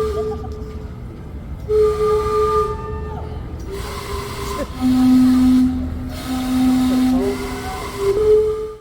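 Gastown steam clock's steam whistles playing a chime tune, one held note after another at different pitches, each about a second long, over a steady hiss of steam. The sound cuts off suddenly at the very end.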